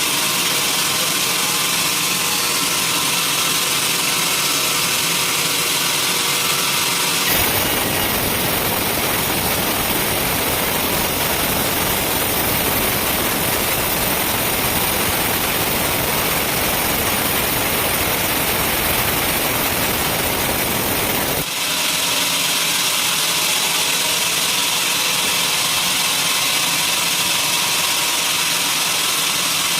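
Sawmill machinery running steadily with a hum of even tones. About seven seconds in, a dense, deeper rushing noise takes over for roughly fourteen seconds, then stops abruptly and the steady hum returns.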